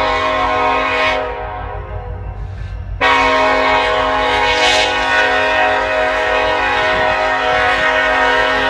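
Diesel locomotive's multi-chime air horn sounding: one blast that ends about a second in, then after a gap of about two seconds a long blast held to the end, over the low rumble of the train.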